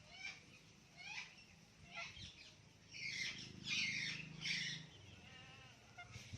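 Parrots calling: a few short chirps, then three loud, harsh squawks in quick succession about three to four and a half seconds in, with fainter short calls after.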